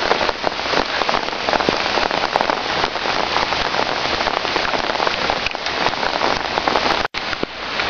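Steady rain, with many close raindrop hits crackling on or near the microphone. The sound cuts out for an instant about seven seconds in.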